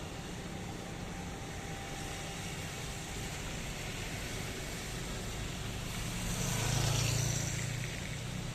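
Steady rain falling, with a vehicle passing on a wet road near the end: its low engine hum and tyre hiss swell and then fade.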